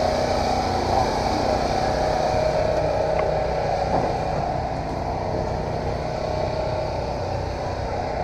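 Engines running steadily: a continuous mechanical drone with a constant hum.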